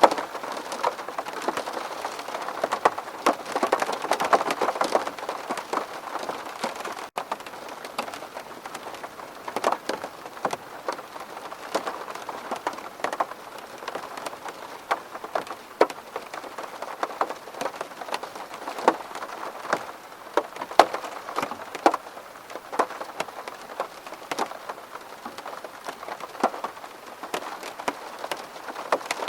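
Rain falling on a window pane: a steady patter with many distinct drops tapping sharply on the glass. It is heavier for the first several seconds, then a little lighter.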